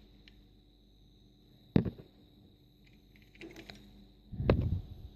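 Toy cars being handled: a sharp knock about two seconds in, a few light clicks, then a heavier knock with a dull thud near the end.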